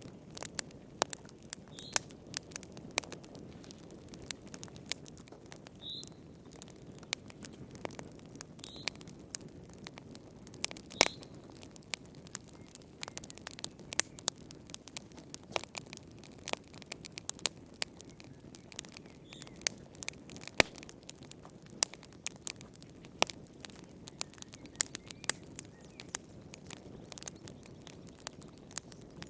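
Wood fire burning in a fireplace: irregular sharp crackles and pops over a low, steady rush of flame. A few short, high chirps come through now and then.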